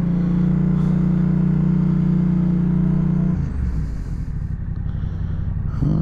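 2016 Yamaha FZ-07's 689cc parallel-twin engine with an Akrapovic exhaust running at steady revs, then a little past halfway easing off to a lower, rougher, slightly quieter note.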